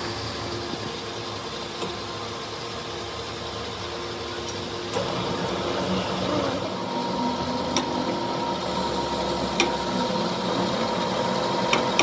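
A machine running steadily, with a hum and steady tones, growing a little louder about halfway through. A few sharp clicks or knocks come at uneven intervals.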